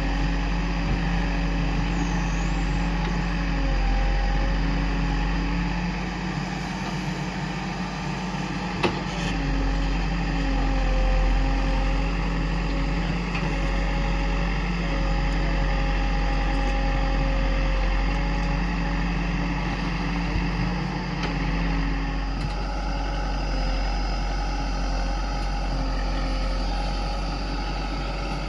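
JCB 3DX backhoe loader's diesel engine running steadily while it works, its pitch dipping and rising slightly as the load changes. There is a single sharp knock about nine seconds in.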